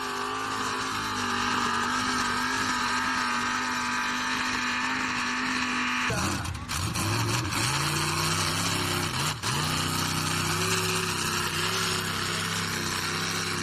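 Competition pulling tractor's engine running hard, a steady pitched note that changes abruptly about six seconds in.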